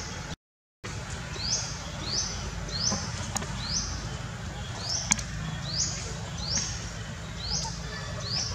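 A bird repeating a short, high, rising call over and over, roughly every half second to a second, over a steady low rumble. The sound cuts out completely for a moment just under a second in.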